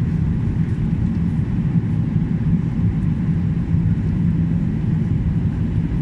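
Steady low-pitched rumble of an airliner's cabin noise in flight, engines and airflow droning evenly during the descent to landing.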